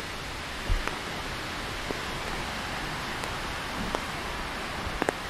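Steady hiss of rain falling on wet pavement and trees, with a few sharp ticks from drops striking close by.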